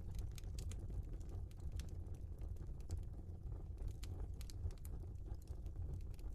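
Log fire crackling in a fireplace: frequent irregular snaps and pops over a low steady rumble.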